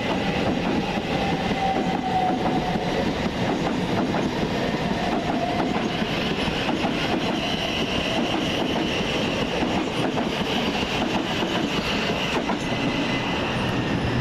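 Electric multiple-unit passenger train moving through the station, a steady rumble with wheels clicking over rail joints.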